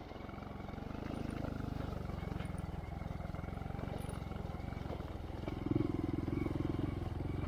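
Honda Monkey's single-cylinder engine idling through a Yoshimura RS3 exhaust with a steady, even putter, briefly rising in level about three-quarters of the way through.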